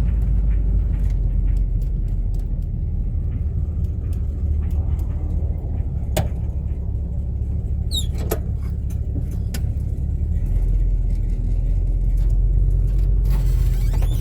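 Steady low road and engine rumble inside a moving car's cabin, with a few brief clicks about six and eight seconds in. A louder hiss comes in near the end.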